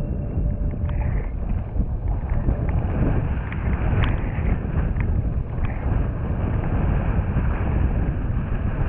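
Wind buffeting the microphone: a steady, dense rushing noise with a few faint clicks.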